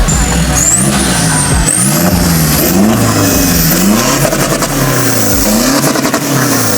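A car engine revving repeatedly, its pitch climbing and dropping several times in succession, with a high whine rising along with the revs.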